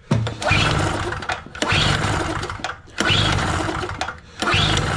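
Recoil starter of a TOGO GG1000 two-stroke generator pulled four times with the choke on. Each pull spins the engine over for about a second without it catching, which the owner puts down to too little fuel in the carburetor bowl.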